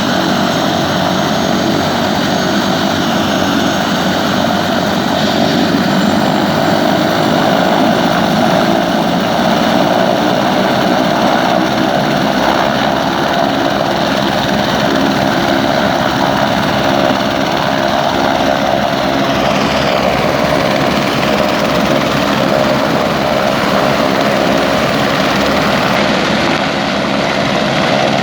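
Helicopter running, its engine and rotor making a loud, steady drone.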